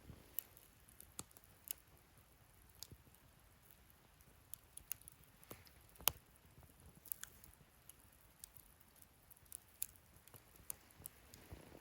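Wood fire in a fire pit stand crackling faintly, with scattered, irregular sharp pops; the loudest pop comes about six seconds in.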